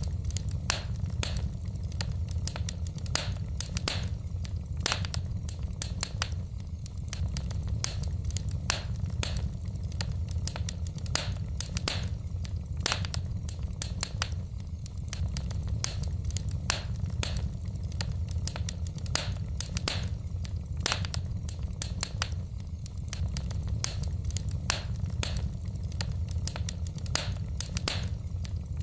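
Wood fire in a fireplace crackling: sharp snaps and pops several times a second over a steady low rumble.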